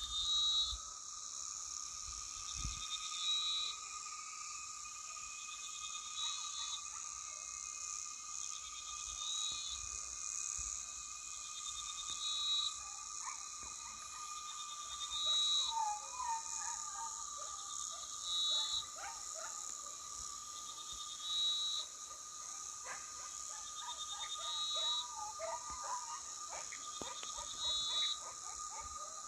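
Dusk chorus of insects and frogs: a steady high-pitched insect drone and a steady lower whistling tone, with a short call repeating about every three seconds and scattered brief chirps.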